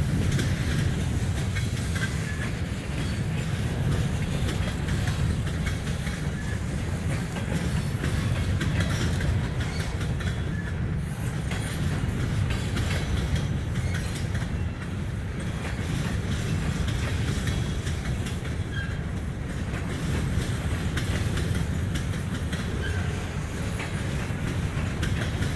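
Norfolk Southern freight train rolling past at a steady speed: a constant low rumble of boxcars and covered hopper cars, with wheels clicking over the rail joints.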